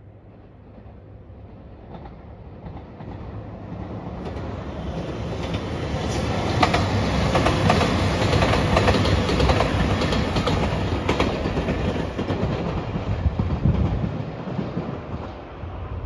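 JR Shikoku 2700 series diesel express train passing close by. Engine and wheel noise build up, peak in the middle with a clickety-clack of wheels over rail joints, then fade as it moves away.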